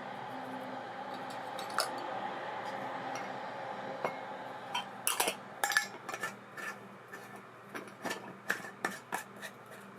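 ABU Ambassadeur 2500C De Luxe baitcasting reel spool spinning freely with a steady whir that slowly fades, then a string of sharp metallic clicks and clinks from about five seconds in.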